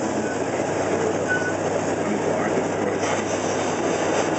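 Open-air park train running steadily, its passenger cars rumbling and rattling along the track.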